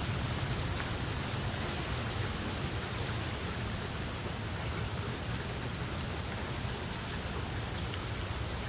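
Steady rain falling, an even hiss with a few faint drop ticks over a low rumble.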